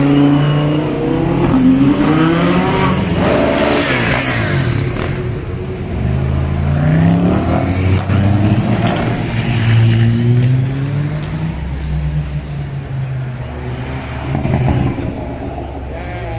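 Performance car engines revving hard as cars pass one after another, the engine note climbing and falling several times.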